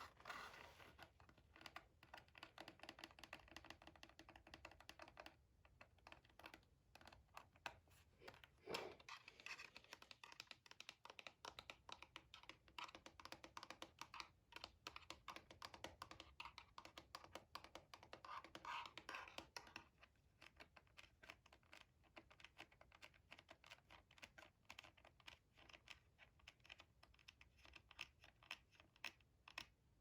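Quiet typing on a gaming computer keyboard: a fast, irregular run of key clicks, with scratchy rubbing sounds twice, near the start and again about two-thirds of the way through.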